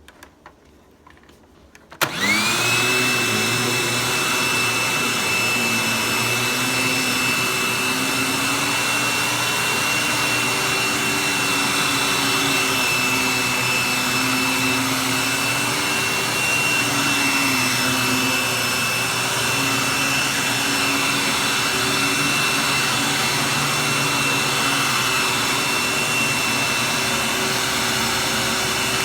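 Hoover vacuum cleaner switched on about two seconds in, its motor whine rising quickly to speed and then running steadily with a high whine over a lower hum that wavers slightly.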